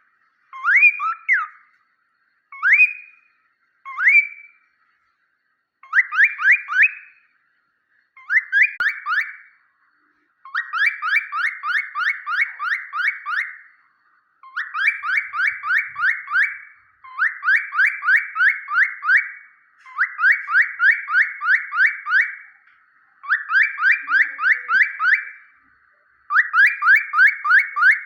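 Pet parrot whistling a series of quick rising notes, about four a second, first as single notes and then in repeated runs of one to three seconds.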